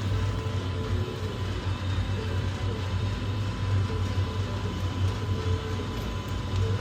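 Boiler-room machinery running: a steady low rumble with a faint steady hum above it.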